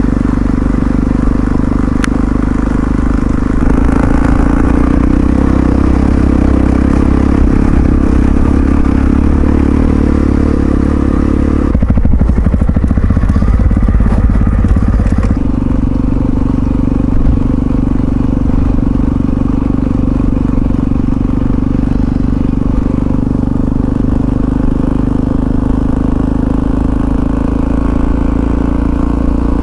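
Yamaha XT660Z Ténéré's single-cylinder four-stroke engine running steadily under way, heard from on the bike. Its note turns rougher and uneven for a few seconds about twelve seconds in, then settles back to a steady drone.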